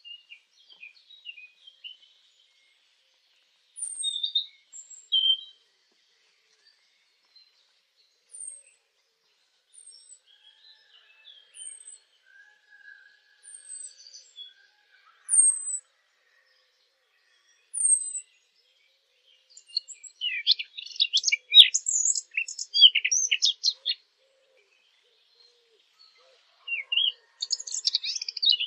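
Small songbird calls, the 'fig bird' sound used to lure birds when hunting. A series of short, high, falling chirps comes every second or two, then bursts of fast, scratchy warbling about two-thirds of the way in and again near the end.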